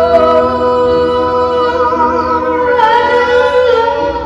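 A woman singing a long held note of a love song with vibrato, backed by music.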